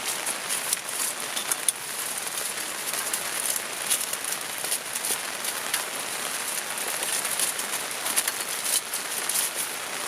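Steady rain falling, with many small sharp taps of drops throughout.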